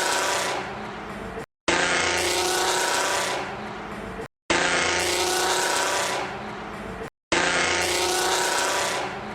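Ford Mustang 4.0 V6 with a supercharger or turbo being revved: each burst starts loud with a rising whine over the engine note, then falls away. The same burst repeats four times, with short silent cuts between.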